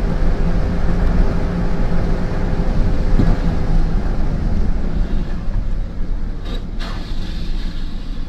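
Steady rumble of a moving road vehicle, with engine and road noise and wind on the microphone. Two brief hissing sounds come about six and a half seconds in.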